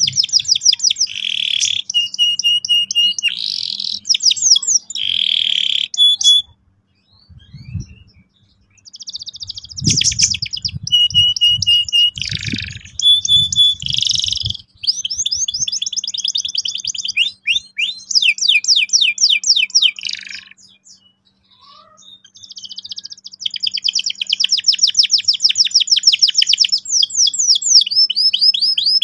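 Domestic canary singing in bouts of rapid rolling trills and held notes, separated by short pauses. A few low bumps sound in the middle, under a faint steady hum.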